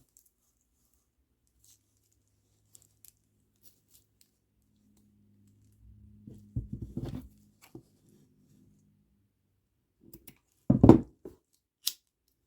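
Small clicks and knocks of beadwork and string being handled and cut at a table. A cluster of dull thumps comes about six to seven seconds in, and two louder thumps come near the end.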